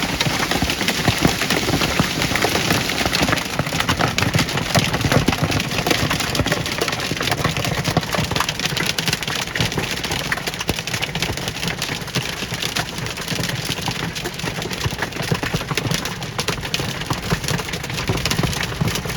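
Hailstones pelting down in a hailstorm: a dense, steady clatter of countless small impacts that does not let up.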